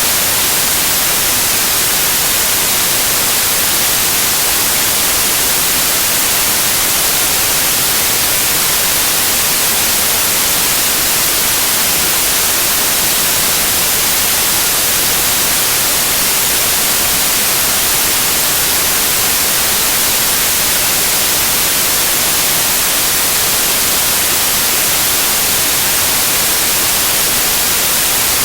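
Loud, steady white noise: an even, unchanging hiss, brightest in the high frequencies.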